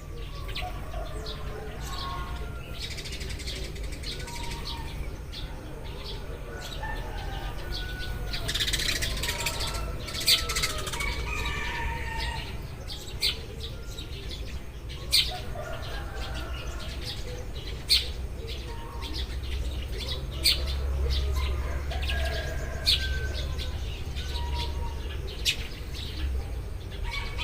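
A group of Eurasian tree sparrows chirping continuously, with sharp, loud single chirps standing out every few seconds, over a steady low rumble.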